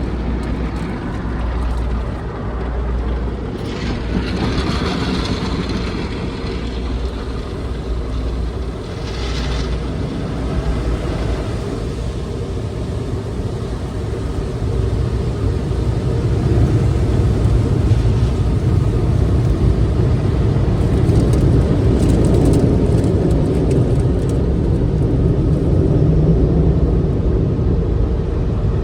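Tunnel car wash machinery heard from inside the car: a continuous low rumble with an even throbbing from the rotating brushes and short bursts of spray hissing. The rumble grows louder and fuller in the second half.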